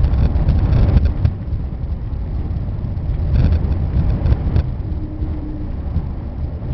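Airliner cabin noise during landing: a steady, deep rumble heard from inside the cabin, a little louder in the first second or so, then easing slightly.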